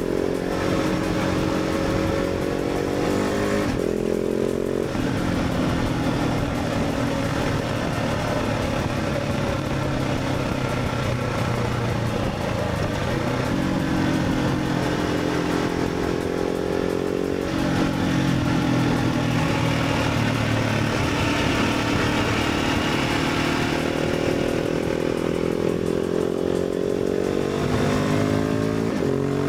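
Motorcycle engine pulling through the gears while riding: the note rises steadily under acceleration and drops with a gear change about 4 seconds in, again about 17 seconds in and once more near the end, over steady wind and road noise.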